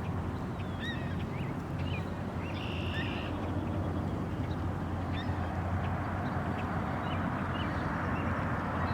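A flock of Canada geese calling, short scattered honks, most frequent in the first half, over a steady low rumble.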